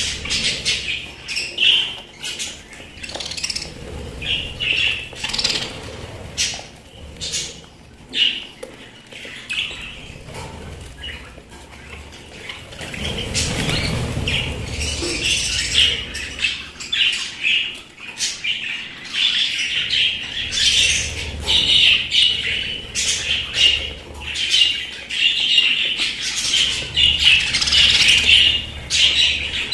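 Pet budgerigars chirping and chattering continuously, many short overlapping calls, growing busier and louder about halfway through.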